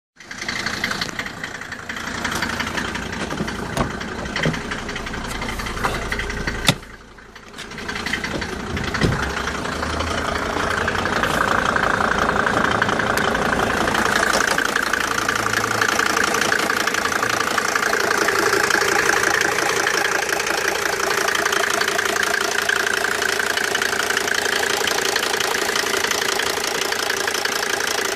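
Mercedes OM605 turbodiesel inline-five idling, carrying the strange noise that the owner is showing. The sound dips briefly about seven seconds in, then runs louder and steadier from about ten seconds on.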